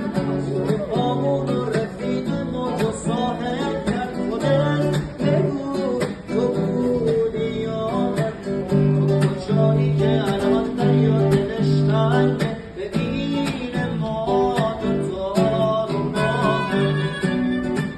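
Acoustic guitar playing a tune, strummed and plucked with sustained chords.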